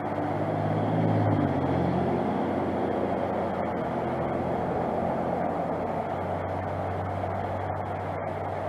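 Steady rush of flowing stream water, with a low hum that swells about a second in and fades over the next few seconds.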